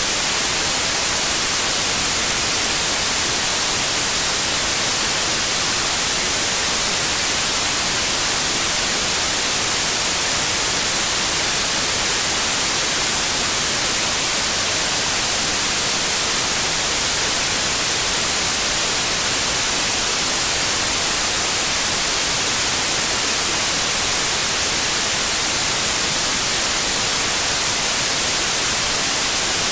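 Steady, unbroken white noise: an even hiss, strongest in the high frequencies, with no changes in level.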